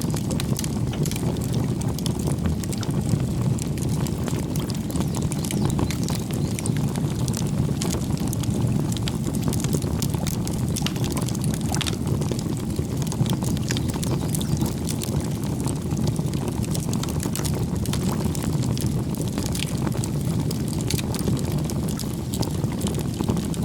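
Campfire burning: many sharp wood crackles and pops over a steady low rumble of the flames.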